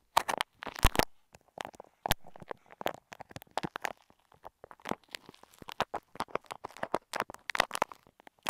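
Grainy, bead-studded clay being pressed and picked at right against an earphone microphone: irregular sticky clicks and crackles with short quiet gaps.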